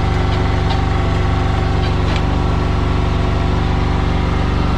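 Diesel excavator engine running steadily, with a few light knocks in the first couple of seconds.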